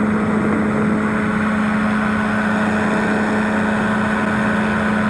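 Powered parachute's engine and propeller running steadily in flight: a constant, unchanging drone with one strong steady hum.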